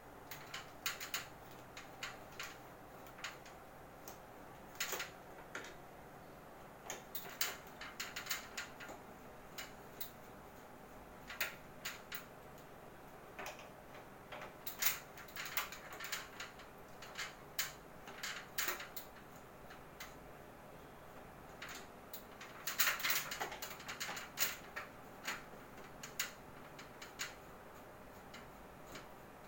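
Irregular light clicks and taps of plastic parts and fittings being handled while an air conditioner's casing is worked open, with a denser run of clicks near the end.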